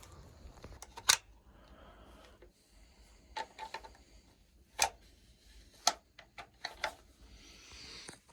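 A handful of sharp, irregular clicks and knocks, about six spread over several seconds, over faint background noise.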